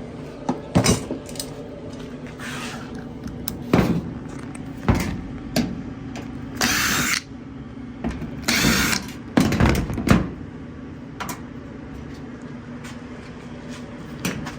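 Scattered clicks and knocks of hand tools and dryer panels being handled, with two short bursts of a power tool, one about seven seconds in and one about two seconds later. A steady low hum runs underneath.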